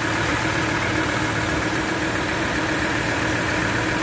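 Ford Ranger 3.2 five-cylinder turbodiesel idling steadily, with a continuous grinding from the belt drive that the mechanic traces to a failing alternator overrunning clutch pulley.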